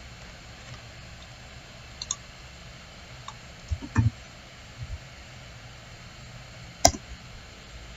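A computer mouse clicking now and then, about half a dozen separate clicks with the sharpest near the end, over a steady low hum.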